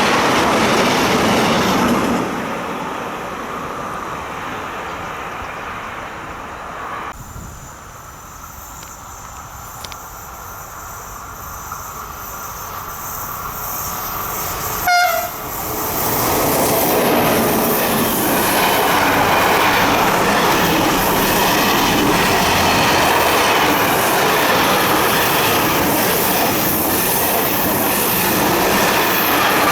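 A train running past on the rails, wheels rolling over the track. The noise drops about two seconds in and stays lower for a while. Just past the middle comes a brief loud tone, then the rolling train noise returns loud and holds.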